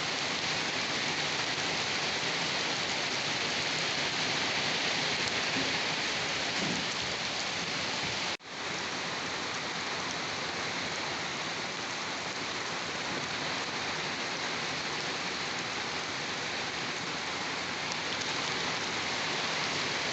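Steady rain falling, an even continuous hiss. A little over eight seconds in, it cuts out for an instant and comes straight back.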